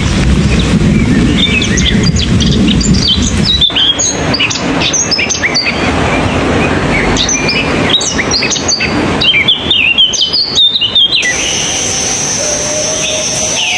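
Small songbirds chirping and singing, a rapid run of short high notes that is busiest in the middle, over a low rumble in the first few seconds. Near the end the sound switches abruptly to a steady high whine and a sliding whistle.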